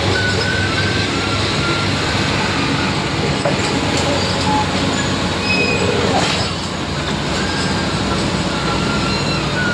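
Heavy diesel vehicles running on a rough, unfinished road, a dense steady engine noise with short high metallic squeals scattered over it.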